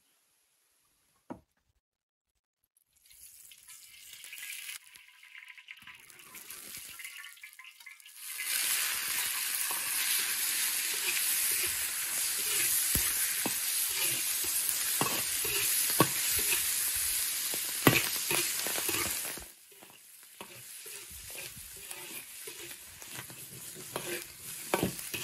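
Fatty boiled pork slices sizzling as they stir-fry in a large iron wok, a metal ladle scraping and knocking against the pan. After a near-silent start with a single click, the sizzle comes in about three seconds in, grows much louder about eight seconds in, and drops back about twenty seconds in as the stirring goes on.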